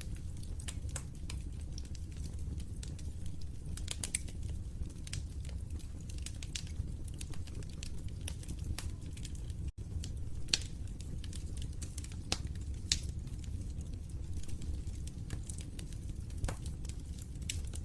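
Fireplace wood fire crackling, with irregular sharp pops and snaps over a steady low rumble of the flames; the sound cuts out for an instant about ten seconds in.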